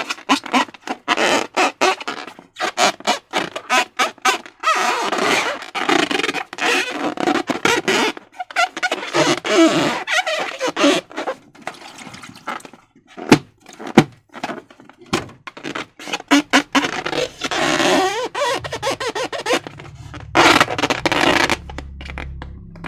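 Slime being squished and stretched by hand, making rapid, irregular sticky squelches and crackles, with a few sharp clicks about halfway through. Low background music comes in near the end.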